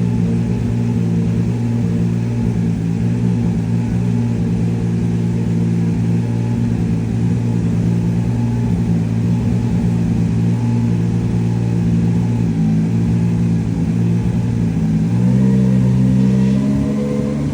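Subaru BRZ GT300 race car's turbocharged flat-four engine idling steadily through its exhaust. About fifteen seconds in the revs rise a little and it gets louder, then it settles back down near the end.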